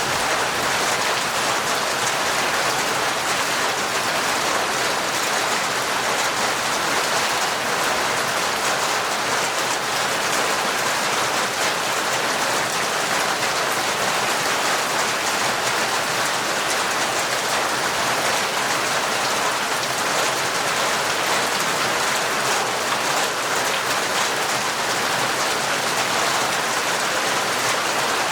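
Heavy, torrential rain falling steadily, a dense even hiss of drops with no breaks.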